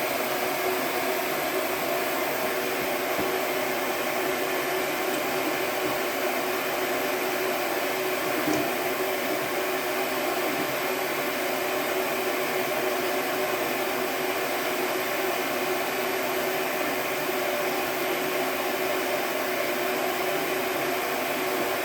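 Shop blower running steadily: an even rushing noise with a low hum under it.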